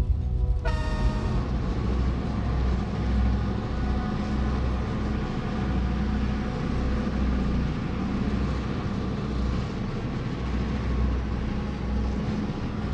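A diesel freight train passing: the locomotive's engine throbbing under a steady rumble of rail cars rolling on the track. A short horn-like note fades out about a second in.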